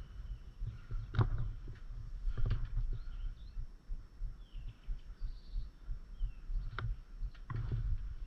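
Faint, short bird chirps over steady low rumbling and thudding, with a few sharp clicks or knocks scattered through.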